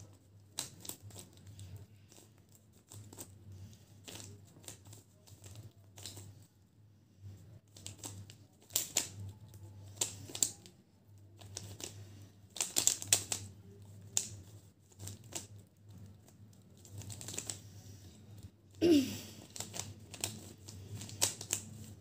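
Plastic 3x3x3 Rubik's cube being turned by hand during a solve: irregular bursts of quick clicking and clacking as the layers rotate, with short pauses between bursts. A steady low hum runs underneath.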